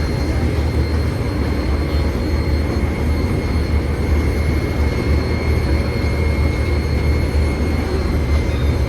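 Chao Phraya express boat's engine running steadily under way: a steady low drone with a thin, steady high whine over it.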